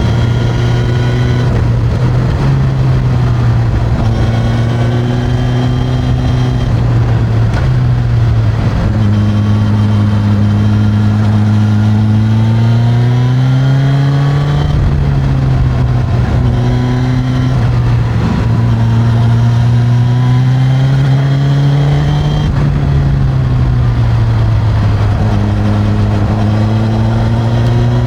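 Suzuki GSX-S1000's inline-four engine through its stock exhaust, heard while riding. The engine note climbs and falls again and again as the revs rise and drop.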